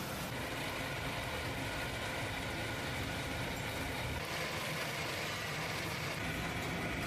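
Factory machinery running: a steady mechanical hum and rush with no distinct strikes.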